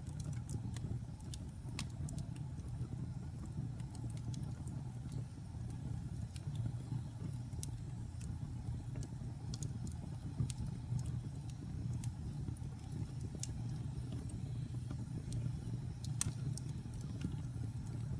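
Wood fire burning in a fireplace: a steady low rumble of flame with irregular sharp crackles and pops from the burning logs, a louder pop about 16 seconds in.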